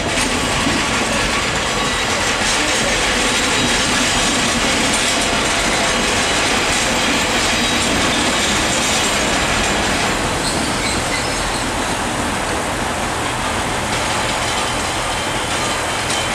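Pacer diesel railbus pulling out along the platform, its diesel engine running under power and its wheels clattering on the rails as the carriages pass, in a loud, steady stream of noise.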